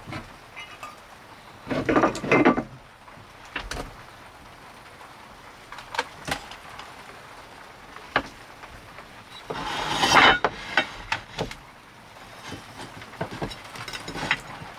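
Camp gear being handled: scattered knocks and clacks, with two louder bursts of clatter about two seconds in and about ten seconds in, over a steady hiss of rain.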